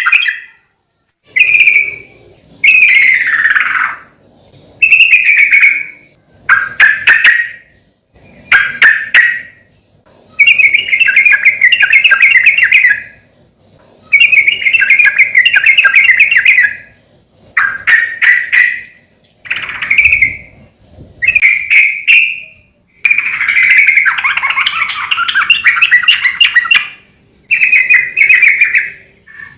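Yellow-vented bulbul singing in a steady series of loud, bubbly chattering phrases, each a second or few long with short pauses between. This is the lively, full 'gacor' song used as a master recording to set other bulbuls singing.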